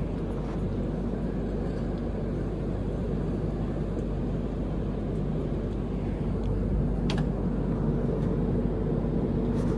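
Steady low rumble and hum of a train carriage, with a few faint clicks.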